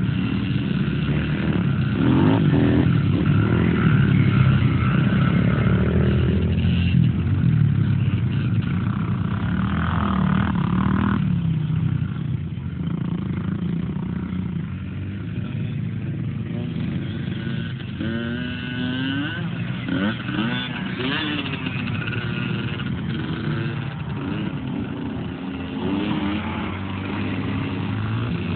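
Dirt bike engine running and revving, loudest for the first ten seconds or so, then fainter as the bike moves off.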